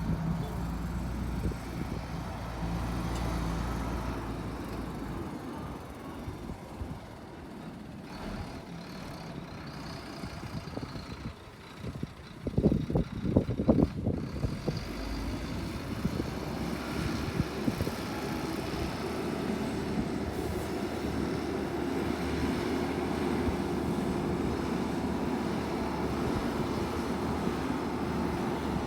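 Heavy diesel earthmoving machinery running steadily, with a loud burst of clattering about twelve seconds in that lasts a couple of seconds.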